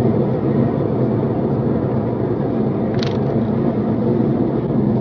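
Steady car engine and road noise heard from inside a moving car, with a short click about three seconds in.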